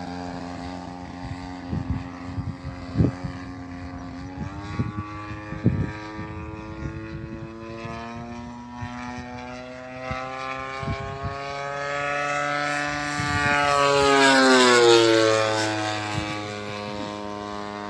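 Gasoline engine and propeller of a radio-controlled model airplane in flight. The engine note steps up in pitch about four seconds in, grows louder as the plane comes near, then drops in pitch as it passes and fades to a lower steady drone. A few sharp knocks are heard in the first six seconds.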